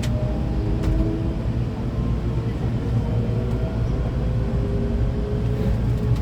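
Hankyu electric train running, heard from inside the car: a steady low rumble of wheels on rail with faint motor tones from the Toshiba GTO-VVVF inverter drive, and a couple of short clicks.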